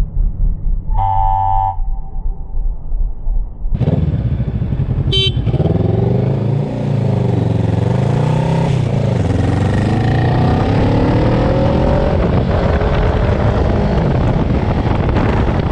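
Motorcycle engine running low, with a horn honking briefly about a second in. About four seconds in, the engine and wind noise jump up suddenly as the bike accelerates, the engine pitch rising and dropping again and again through gear changes.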